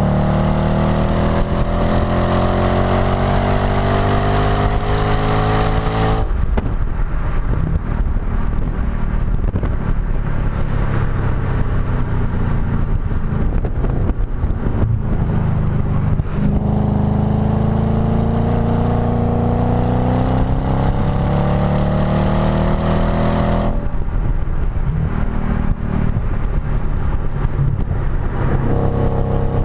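Audi B7 S4's 4.2-litre V8 through a STaSIS aftermarket exhaust, heard close at the tailpipe under hard track driving. The note climbs in pitch as the car pulls up through the revs, cuts off abruptly about six seconds in to a rougher off-throttle sound, climbs again for several seconds in the middle, and drops off once more before picking up near the end.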